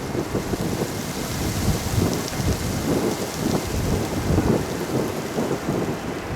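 Strong gusty wind buffeting the microphone: a loud, uneven low rumble that swells and falls with the gusts.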